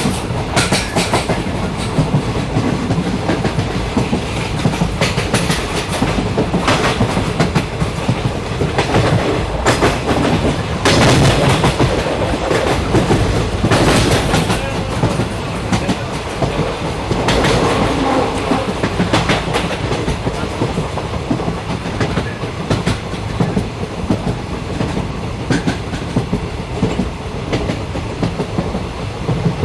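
Train running along the track, heard from on board: a steady rumble with the clickety-clack of wheels over rail joints, swelling louder a couple of times in the middle.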